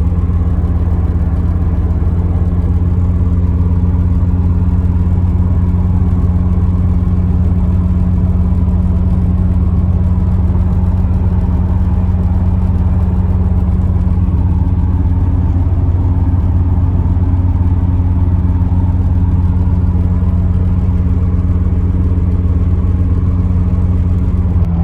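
Engine-swapped Volvo 740 with a T5 five-cylinder turbo engine running at a steady, unchanging drone, with no revving.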